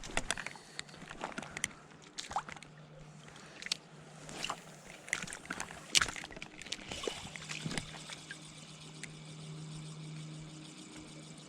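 Creek water splashing and trickling, with scattered sharp clicks and taps over the first several seconds. A low steady hum sets in about two thirds of the way through.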